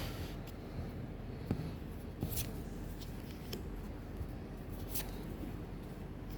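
Hands handling Pokémon trading card packs and cards: a few short scrapes and clicks of paper and foil, over a steady low hum.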